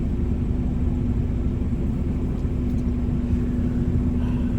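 Car engine idling, heard from inside the cabin: a steady low rumble with a constant hum over it.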